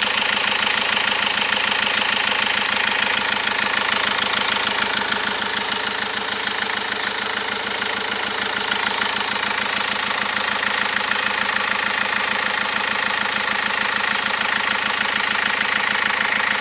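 Car engine idling steadily with an even, rapid pulsing and a noise from the intake side. The engine has lost power since its overhaul.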